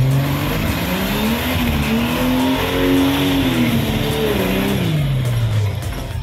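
Open-top off-road 4x4's engine revving hard under load as it drives up out of a mud pit: the pitch climbs steadily for about three seconds, then falls back as the revs drop near the end.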